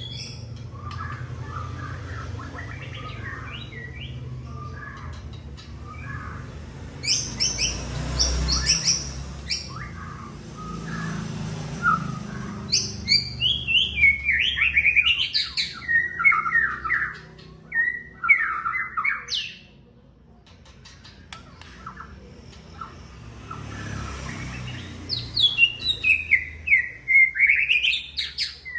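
White-rumped shama singing in bursts of varied, sliding whistled phrases and quick runs of sharp notes, with short pauses between, over a steady low hum.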